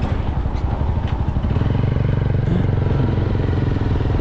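Motorcycle engine running under way, a steady low pulsing note that firms up about a second and a half in, with road and wind noise over it.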